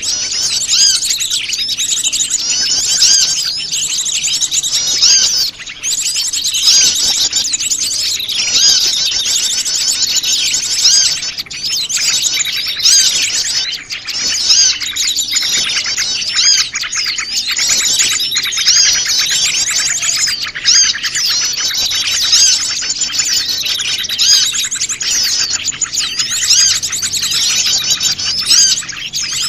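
A busy chorus of many small wild birds chirping and twittering at once, the calls overlapping without pause: a mixed small-bird lure call.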